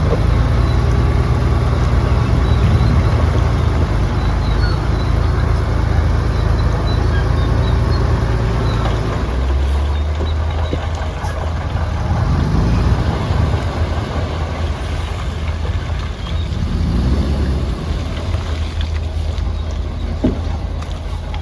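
Heavy diesel engine of a crawler bulldozer running under load, a steady low drone that swells and rises in pitch a couple of times as it works.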